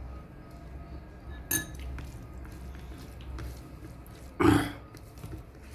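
Eating at a plate of food over a low steady hum: a sharp click of a dish about a second and a half in, then a short, louder mouth noise of eating a little after four seconds in.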